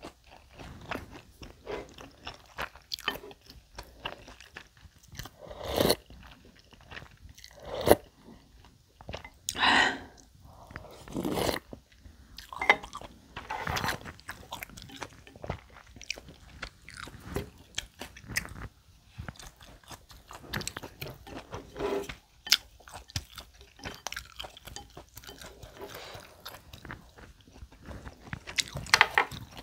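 A person chewing mouthfuls of bibimbap close to the microphone: irregular wet chewing sounds, with several louder moments.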